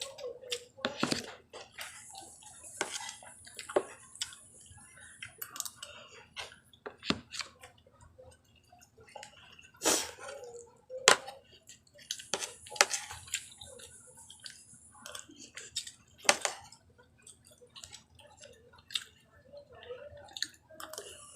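Close-up eating sounds: chewing and wet smacking of eggplant omelette and vinegared eggplant with rice, with scattered sharp clicks and two stretches of high hiss.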